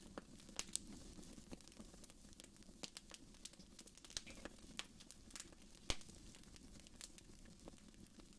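Wood fire burning in a fireplace, crackling faintly with irregular snaps and pops over a low steady rush of flame; the sharpest pop comes about six seconds in.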